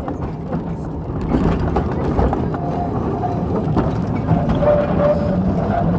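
Small passenger train rolling along the track, heard from on board: a steady rumble of wheels on the rails with light clattering.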